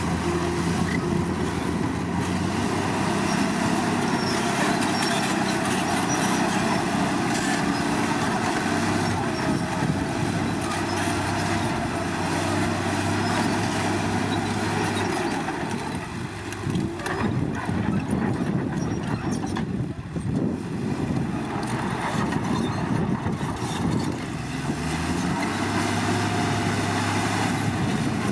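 Komatsu D53 crawler bulldozer's diesel engine working under load, with steady engine tone and track clatter. The engine eases off about halfway through, then revs back up to a steady pitch near the end.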